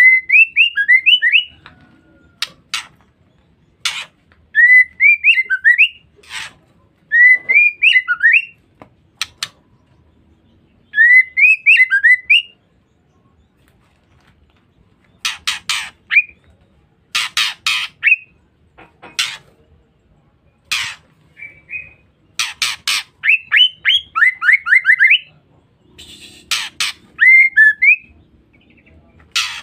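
Female white-rumped shama calling: short phrases of quick rising-and-falling whistled notes alternate with harsh, rasping calls, in bursts separated by pauses of a second or two.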